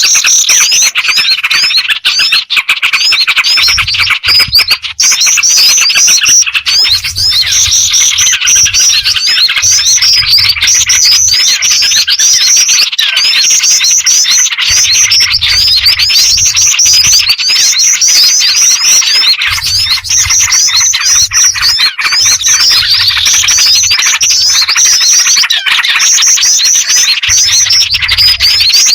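Bird-trapping lure recording: a dense, loud chorus of rapid high chirps and twitters that repeats in a loop every few seconds. It mixes black-winged flycatcher-shrike calls with small-bird and yellow-vented bulbul calls.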